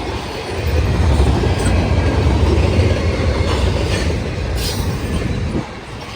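Freight train rolling past, a loud rumble of steel wheels on the rails with some wheel squeal; the rumble eases off abruptly near the end.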